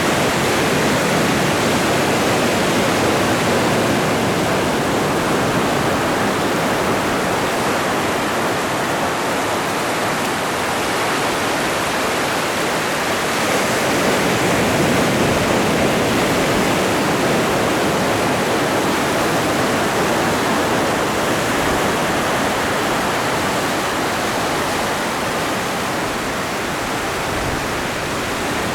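Ocean waves breaking and washing on the shore, a dense, steady rush of surf that swells and eases only slightly.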